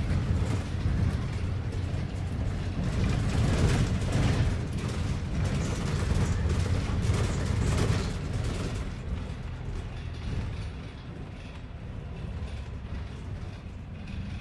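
Inside a moving London bus: a low engine and road rumble with the body rattling and creaking, growing quieter from about nine seconds in.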